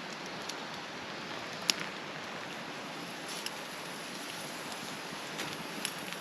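Steady rushing of a mountain stream, with a few light clicks over it, the clearest about a second and a half in.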